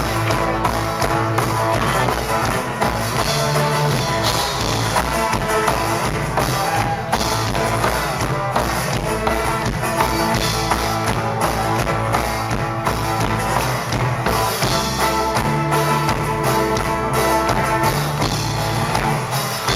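Live band playing an instrumental passage of a folk-rock song, with drum kit, guitar and other instruments over a steady beat and no singing.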